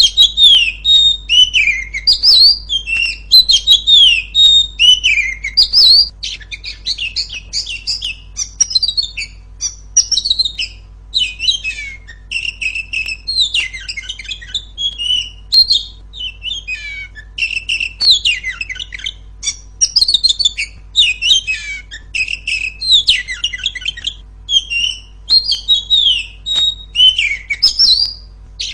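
Female Oriental magpie-robin (kacer) singing loud and non-stop. It starts with repeated clear whistles that slide downward, then turns to quicker, varied chattering and scratchy phrases.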